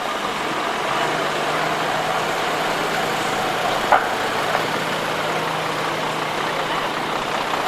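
A truck engine idling steadily, with a single short click about four seconds in.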